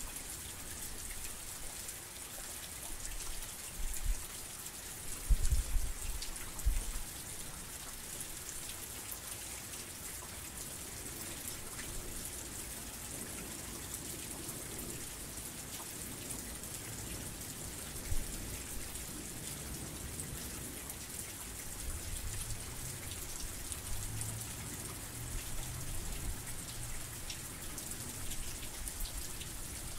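Heavy rain falling steadily, a dense high hiss of drops. Brief low rumbles come a few seconds in and again in the last third.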